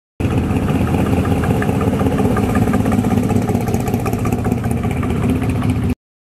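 Classic Chevrolet Chevelle's engine running as the car cruises slowly past: a steady exhaust note with a regular pulse. It starts just after the beginning and cuts off suddenly near the end.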